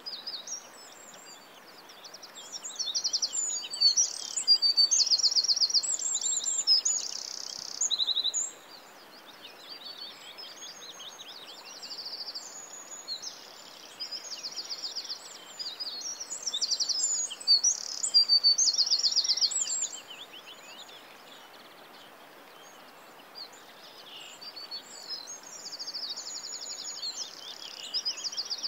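Birdsong: many quick chirps and trills from several birds over a steady faint hiss. The song swells loudest twice, a few seconds in and again about two-thirds of the way through, then thins out.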